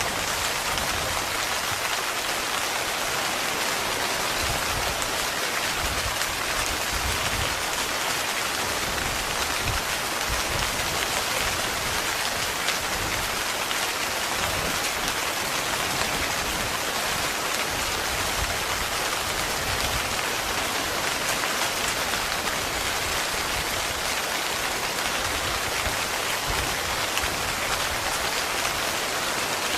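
Steady heavy rain falling on a tent, an even hiss with a fine patter of drops and no thunder.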